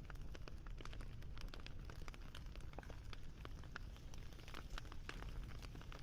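Campfire crackling, with many small irregular snaps and pops over a low steady rumble.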